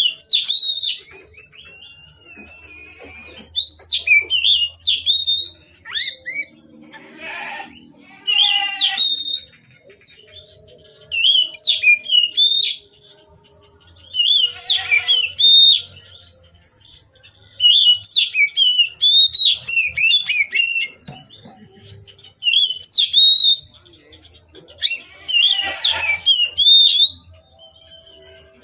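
Oriental magpie-robin (kacer) singing in a run of whistled, gliding phrases of a second or two each, separated by short pauses.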